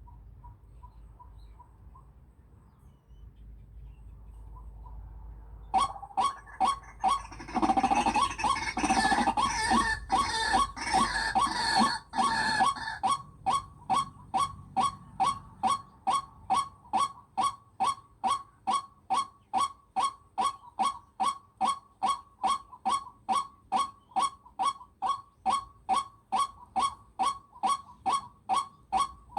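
A bird-like call repeated evenly, about two sharp notes a second, starting suddenly about six seconds in, with a denser burst of calling between about 7 and 13 seconds.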